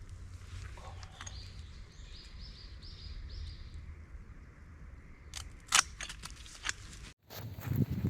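Outdoor ambience with a steady low rumble, a small bird calling a short run of about four repeated high notes, then several sharp clicks near the end.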